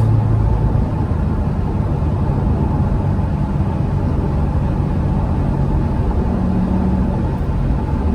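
2016 Corvette Stingray Z51's 6.2-litre LT1 V8, fitted with an AWE X-pipe that deletes the secondary cats, running under way on the road, its note climbing gradually in pitch as the car pulls.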